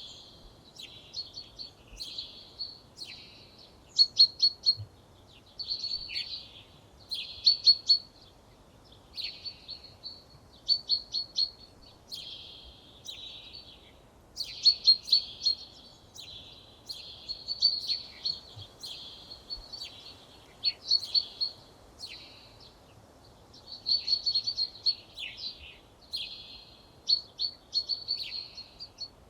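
Songbirds singing in the open: short phrases of high, quick repeated notes, one phrase every second or two with brief pauses between, over a faint steady background hiss.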